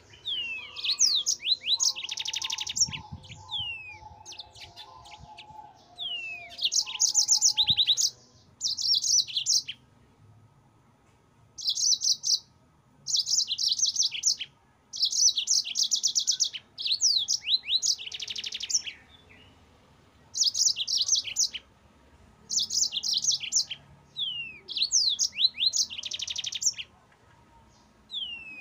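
Yellow-fronted canary (Mozambique canary) singing in repeated bouts of fast trills and falling slurred whistles. Each bout lasts a second or two, with short pauses between them.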